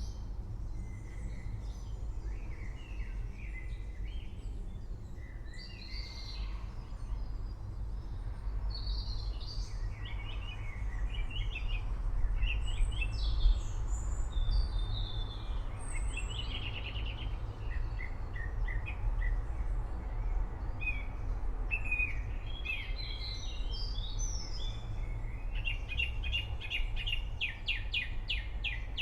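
Several birds singing and chirping over a steady low rumble, with a fast trill near the end.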